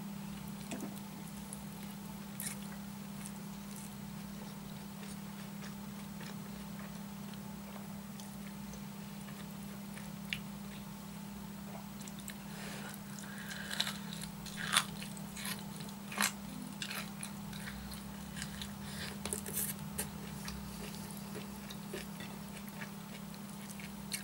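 Close-miked chewing of a mouthful of rice and purple cabbage eaten by hand, with wet mouth clicks and crisp crunches that bunch together in the second half. A steady low hum runs underneath.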